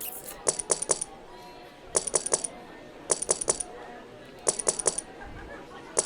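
Online roulette game's chip sound effect: clusters of about four quick clinking clicks, repeating roughly every second and a half, as chips are placed on the betting table.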